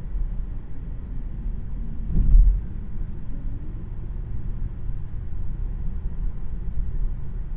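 Steady low road and tyre rumble inside the cabin of a Tesla Model 3, an electric car, while driving. About two seconds in there is one louder thump.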